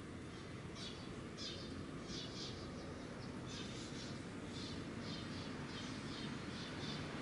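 A bird chirping over and over, short high notes in little clusters about once or twice a second, over a steady low background hum.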